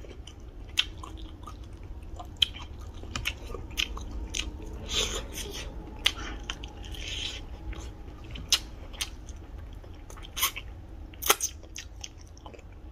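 Close-miked eating: chewing and biting chicken and rice, with irregular sharp clicks and smacks, over a low steady hum.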